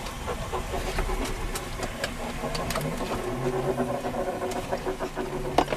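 Vehicle engine running steadily, with scattered light clicks.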